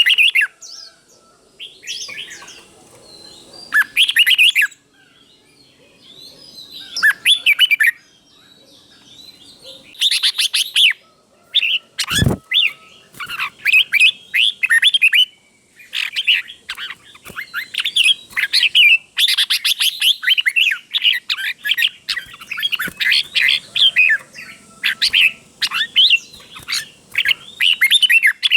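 A red-whiskered bulbul sings bursts of quick, rising and falling whistled phrases, doubling its phrases in pairs. The phrases are spaced out at first and nearly continuous from about ten seconds in. A single sharp knock comes about twelve seconds in.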